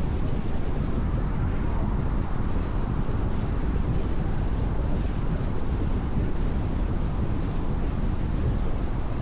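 Steady road noise of a car driving on a rain-wet expressway: a low rumble of tyres and engine with a hiss of wet road spray, unchanging throughout.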